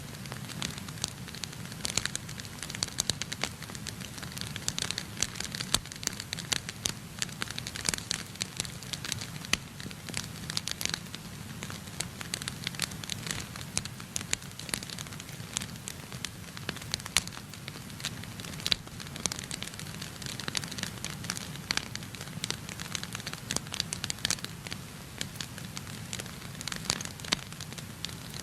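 Wood fire burning in a fireplace, crackling and popping with many sharp snaps over a steady low rumble of the flames.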